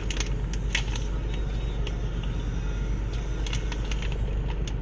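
Steady low rumble of a vehicle interior, with scattered light clicks and rustles from a candy package being handled.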